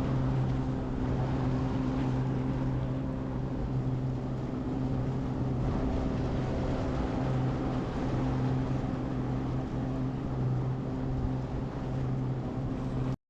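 Boat motor running at a steady speed, a constant low hum with a noisy wash over it.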